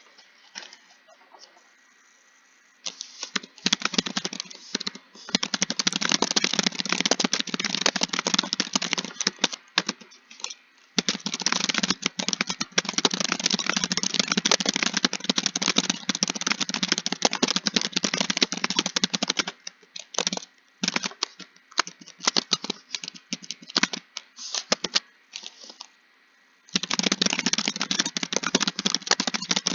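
Fast typing on a keyboard: rapid key clicks in long, dense runs. There is a short pause about a third of the way in, then scattered keystrokes for several seconds past the middle, and a fast run again near the end.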